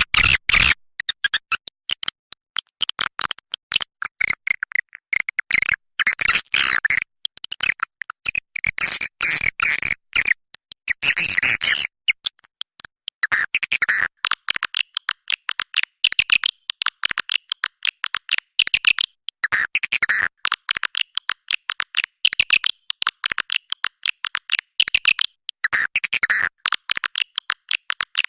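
Recorded swiftlet calls: rapid, high-pitched chirping twitters in dense bursts with short gaps between them. This is a lure call, played to attract swiftlets.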